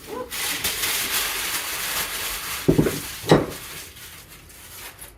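Vinyl plank flooring being handled and laid: a rustling, scraping noise for about three seconds, then two thumps about half a second apart.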